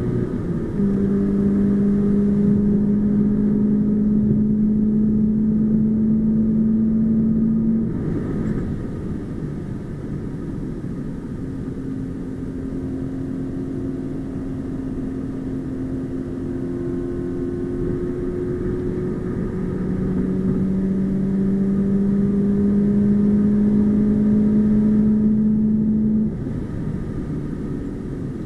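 The 2020 Subaru BRZ's flat-four engine, heard inside the cabin, pulls under throttle with a steady, slowly rising note. About eight seconds in it drops away suddenly as the throttle is lifted, then runs quieter for a stretch. From about twenty seconds in it pulls hard again, and it backs off sharply near the end.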